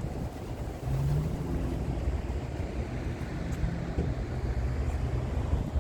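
Wind buffeting the microphone outdoors, a steady low rumble, with a faint low hum coming in about a second in.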